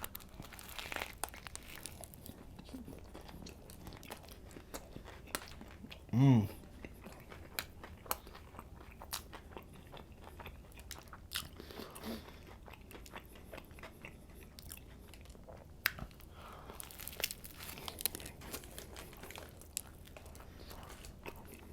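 Close-miked chewing and crunching of a toasted sub sandwich, with many small crackles and clicks of bread and teeth. A brief hum from the voice about six seconds in.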